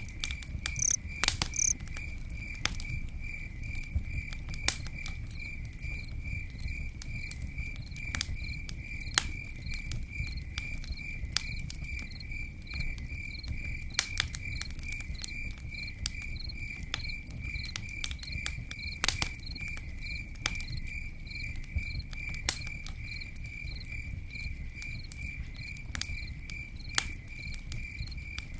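Campfire crackling, with sharp scattered pops, over a cricket chirping steadily in an even, pulsing rhythm and a low rumble.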